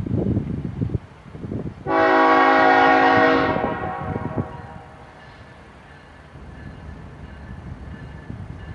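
BNSF freight locomotive's air horn sounding one long blast of about a second and a half, a chord of several notes that starts suddenly and then fades away. Low rumbling comes before it.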